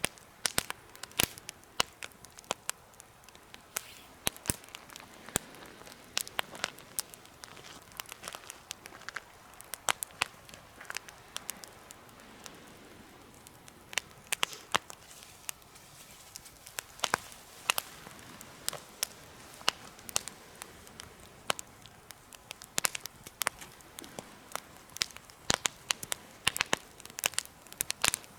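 Campfire burning in a homemade fire pit, crackling with frequent sharp, irregular pops over a soft steady hiss.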